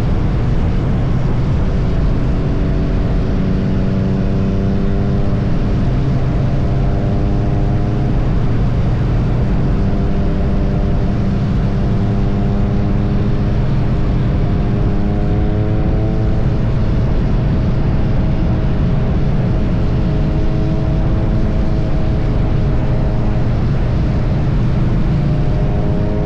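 Triumph Bonneville T100's parallel-twin engine running steadily at highway cruising speed under a constant rush of wind noise. The engine note rises gently a few times, around a third of the way in, about halfway through and again at the very end.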